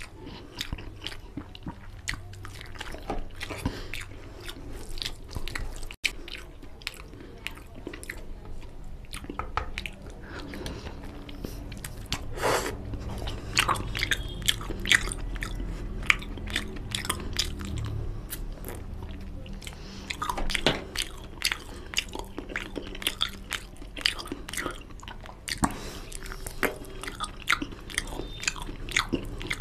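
Close-miked chewing and biting of mutton curry and rice eaten by hand, with many short, sharp wet mouth clicks and smacks.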